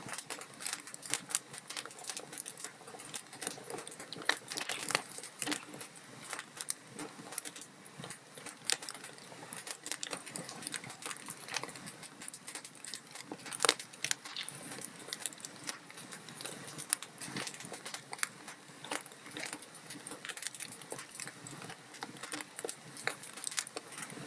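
Log fire crackling in a fireplace: irregular sharp pops and snaps over a soft hiss, with one louder pop about halfway through.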